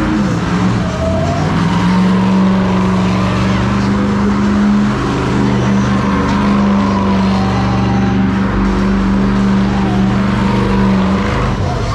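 Car engine held at high, steady revs while the car spins its rear tyres in smoky donuts, with tyre squeal. The revs drop away near the end.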